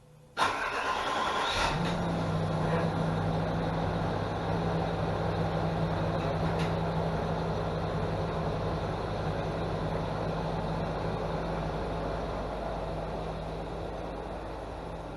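A car engine started: the starter cranks briefly with a rising whine, the engine catches after about a second and a half and settles into a steady idle that grows a little quieter toward the end.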